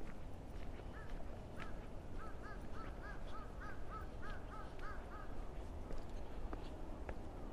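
A bird calling a quick run of about a dozen short notes that rise and fall in pitch, about three a second, stopping a little past the middle.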